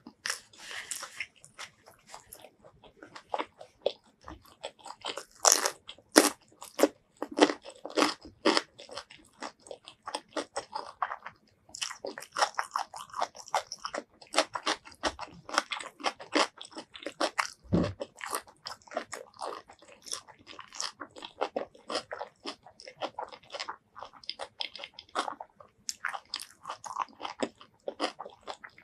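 Close-miked eating: crisp bites and crunchy chewing of food, a dense run of crackling crunches with the loudest bites about five to nine seconds in.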